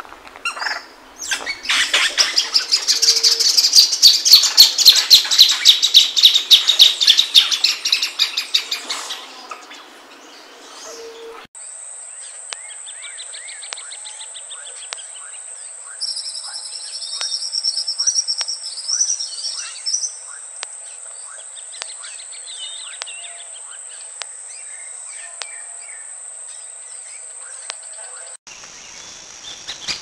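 Plain thornbird singing: a loud, rapid series of sharp high notes that runs for about eight seconds and drifts slightly lower in pitch. After a cut, a quieter recording holds softer song phrases over a steady high whine.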